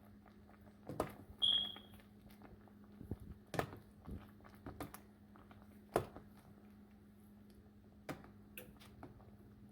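Scattered light knocks and clicks of kitchen handling, with one short high beep about one and a half seconds in, over a faint steady hum.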